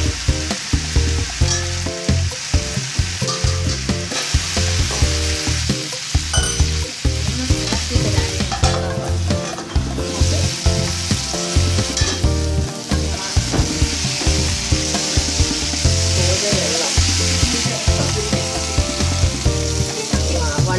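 Chicken pieces with onions and masala sizzling as they fry in an open pan, a steady hiss.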